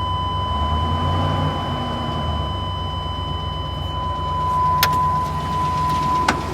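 A 1998 GMC Savana's 5.7-litre V8 idling steadily, with a light tick that the owner suspects is a hydraulic lifter. A thin steady high tone runs alongside and stops near the end, and there are two sharp clicks late on.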